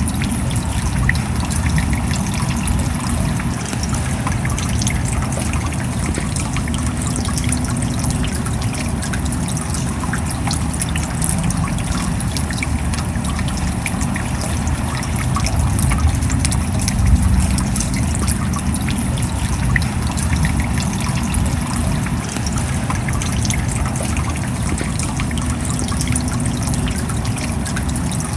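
Steady rain falling, with many separate drop hits over a continuous wash of water noise.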